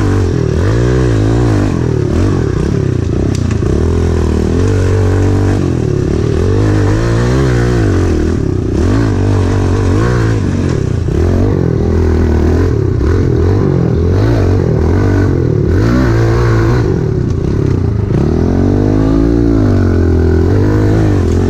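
Pit bike engine running hard under riding, its revs repeatedly rising and falling as the throttle is opened and closed.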